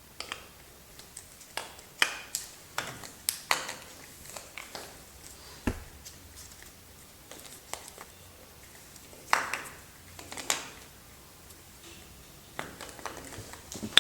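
Soap packaging handled and opened by hand: scattered short taps, clicks and brief paper or cardboard rustles.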